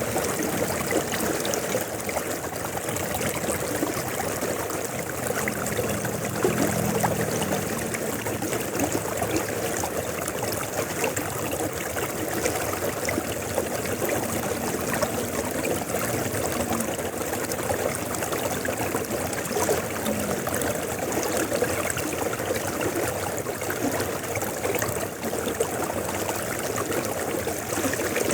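River water flowing, a steady, unbroken rush. A faint low hum rises and fades twice under it, about a fifth and about three-fifths of the way through.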